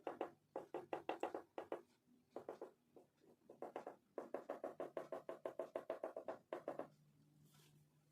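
Oil pastel scribbling on paper in fast back-and-forth strokes, about ten a second, in runs of one to three seconds with short pauses, dying away near the end.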